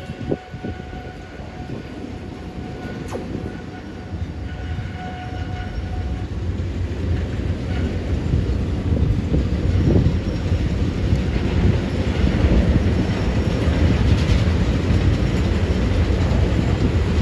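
Rail train creeping forward, a low rolling rumble of wheels and cars that grows steadily louder, with one sharp knock near the start.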